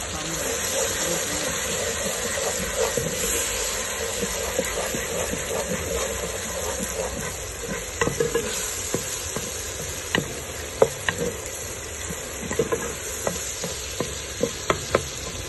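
Diced tomatoes and onions sizzling in hot oil in a metal pot while a wooden spoon stirs them. From about halfway, the spoon knocks and scrapes against the pot in a series of sharp taps.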